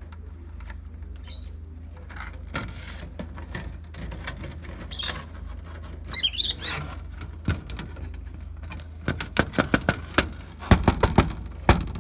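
Pet lovebirds giving a brief burst of high chirps, followed near the end by a quick run of sharp taps and clicks.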